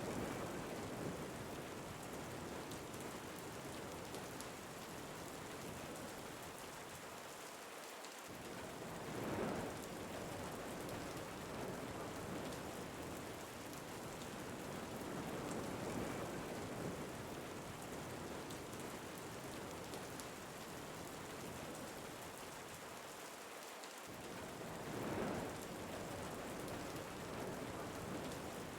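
Steady rain and wind ambience, with a few brief louder swells every several seconds.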